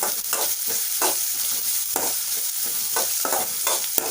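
Chopped onion with mustard seeds, curry leaves and dried red chillies sizzling in hot oil in a kadai, stirred with a spatula in quick scraping strokes, about three a second.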